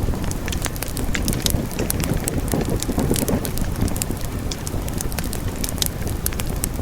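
Wood fire burning with many sharp crackles and pops over a steady low rumble of flames, the rumble swelling briefly a few seconds in.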